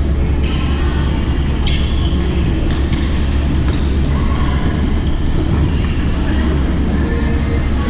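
Badminton rackets striking a shuttlecock in a rally: a series of sharp, short hits at uneven spacing over a steady low rumble.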